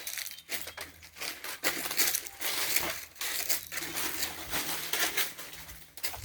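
Footsteps crunching and rustling through dry leaves and brush, an irregular run of crackles.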